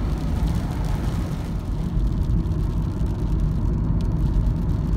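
Steady low rumble of road and engine noise inside the cabin of a Nissan NV200 cargo van driving.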